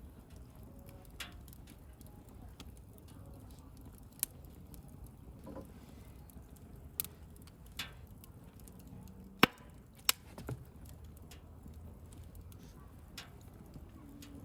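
Wood bonfire crackling: a low, steady rumble of flames with sharp, scattered pops, the loudest two about nine and ten seconds in.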